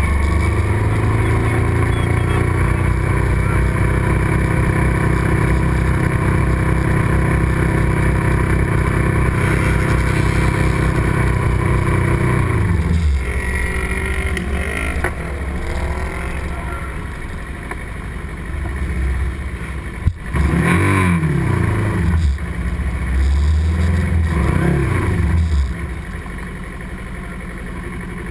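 Racing motorcycle engine running at high revs under steady throttle, then falling in pitch as it slows at about the halfway point. Later it revs up and down several times through gear changes before easing off near the end.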